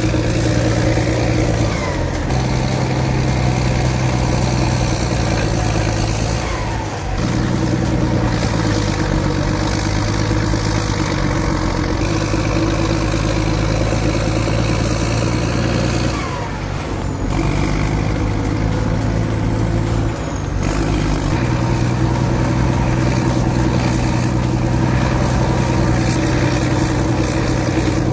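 A bulldozer's diesel engine runs steadily under load, with brief dips in level about 7, 17 and 20 seconds in.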